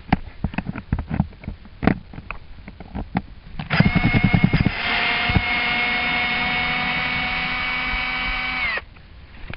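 Power drill backing out a screw: a few knocks and clicks as the bit is set in, then the drill motor runs with a steady whine for about five seconds and winds down as it stops.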